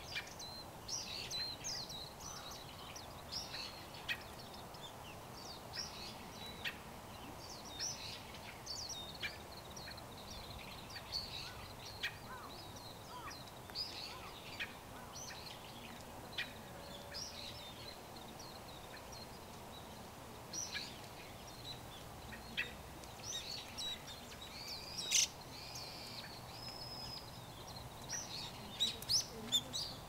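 Wild songbirds giving many short, high chirps and calls on and off, over a steady low background noise. A few of the calls, near the end, are sharper and louder.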